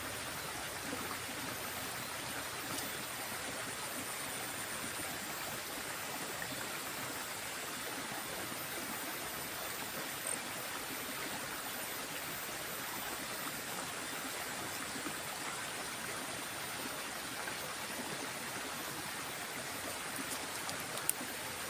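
Steady rush of flowing water in a small stream.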